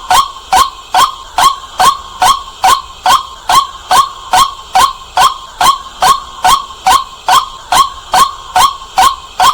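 White-breasted waterhen calling: a loud, steady run of short, clipped notes repeated about three times a second without a break.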